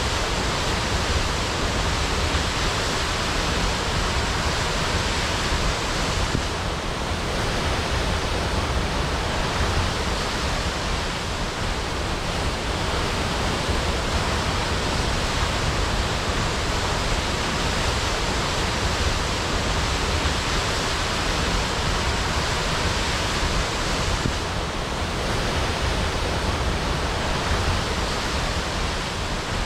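Waterfall crashing: a steady, dense rush of falling water, easing slightly twice for a moment.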